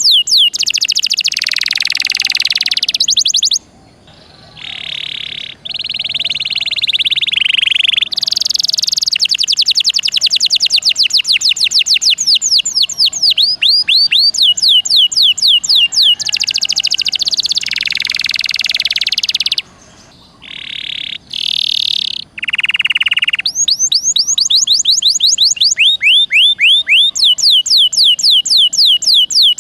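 Domestic canary singing in full song: long, fast trills of high downward-sweeping notes, in phrases with brief pauses about four seconds in and again about twenty seconds in.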